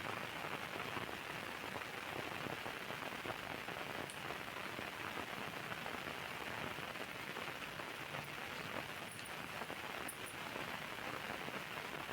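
Steady hiss of rain falling, with a few faint high ticks.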